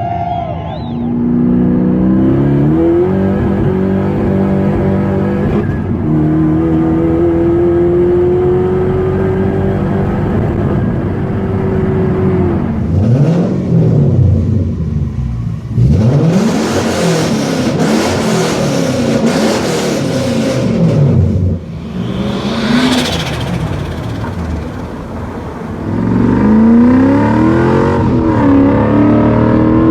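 Toyota UZ-series V8 engine revving hard: one long climb in pitch under acceleration, then a run of quick blips up and down, and another climb near the end.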